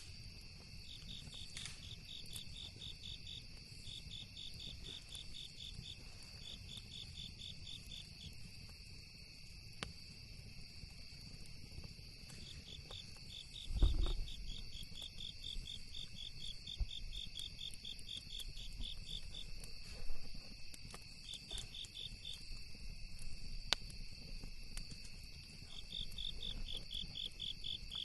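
Crickets chirping in runs of rapid, even pulses over a steady high insect drone, with a few sharp pops from a crackling campfire. One louder low thump about halfway through.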